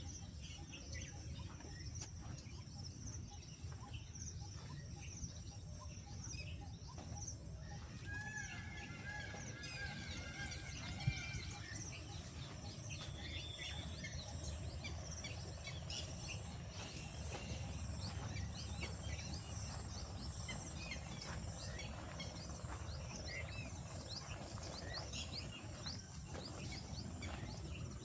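Outdoor birdsong: many birds chirping and calling in short, quick notes, over a steady high-pitched insect drone and a low background rumble. One sharp click about eleven seconds in.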